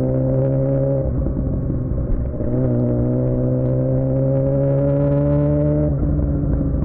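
Suzuki GSX-R600 inline-four through a Yoshimura R11 exhaust, pulling under throttle with its pitch rising slowly. The note breaks up briefly about a second in and again near six seconds, as the throttle closes for a moment, then picks up again.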